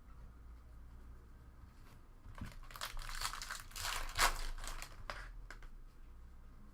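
A trading-card pack's foil wrapper being torn open and crinkled, in a burst of crackling that lasts about three seconds and peaks a little past the middle.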